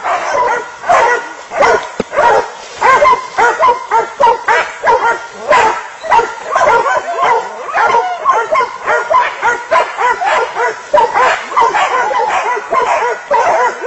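Dogs barking and yelping over and over in quick succession as they fight a pig.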